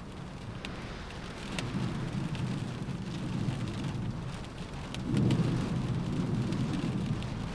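Steady rain on a window, with scattered sharp ticks of single drops striking. Low rumbling swells build under it, the loudest one starting about five seconds in.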